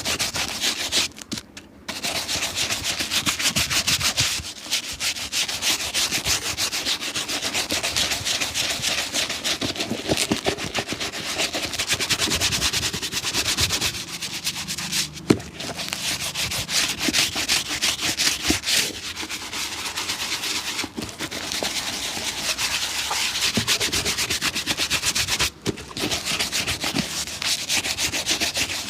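Fast, steady rubbing strokes worked over a shoe by hand during restoration and shining, broken by a few short pauses, with one sharp knock about halfway through.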